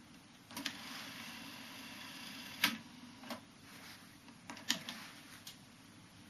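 Nakamichi 660ZX cassette deck's transport and controls clicking, about six sharp mechanical clicks spread over several seconds, with a soft hiss through the first half.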